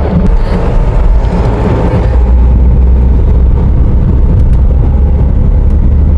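Moving car: steady road and wind rumble, heavy in the low end, with no distinct events.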